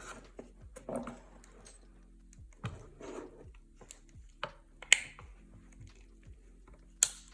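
Scattered small clicks and taps from handling and prying at the welding mask's plastic housing and battery parts, with two sharper snaps, one about five seconds in and one near the end.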